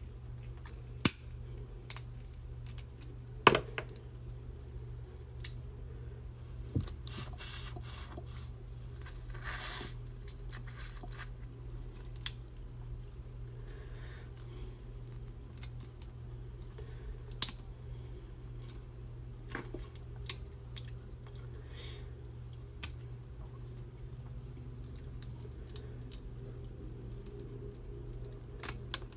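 Close-miked eating of a seafood boil: scattered sharp cracks and clicks, with wet squishing and chewing, and a longer noisy rustling stretch about seven to ten seconds in.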